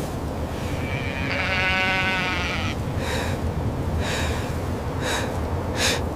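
A sheep bleats once, a long wavering call of about a second and a half, over a steady low rumble. After it come short scuffing sounds about once a second.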